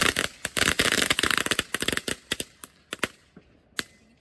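Fireworks crackling: a dense rapid rattle of sharp cracks for about two seconds, thinning to scattered pops, the last one near the end.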